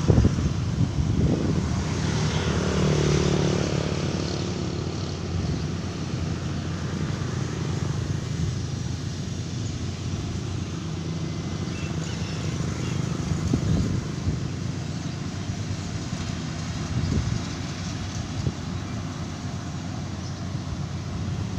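Engine of a rice-harvesting machine, likely a combine harvester, running steadily in the field, with a louder swell in the first few seconds.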